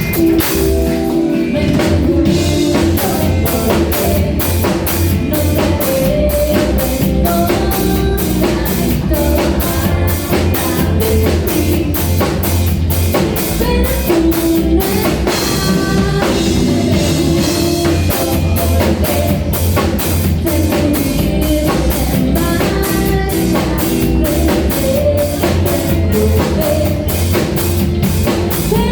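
Rock band playing: a drum kit keeps a steady beat under electric guitar, with dense low bass beneath.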